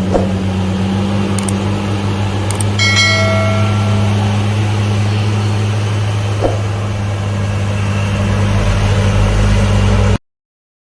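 Large vehicle engine running steadily with a low drone. A brief ringing, metallic tone sounds about three seconds in, with a couple of light knocks. The sound cuts off abruptly near the end.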